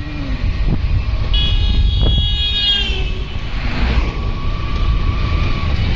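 Steady low rumble of a motor vehicle, with a high horn-like toot from about one and a half seconds in to about three seconds, gliding slightly down.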